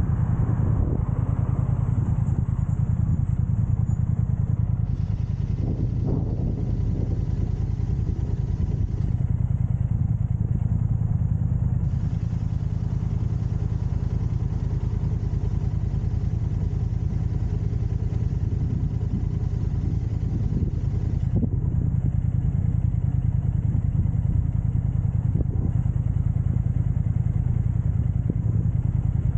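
An engine running steadily with a low, even rumble, holding the same speed throughout.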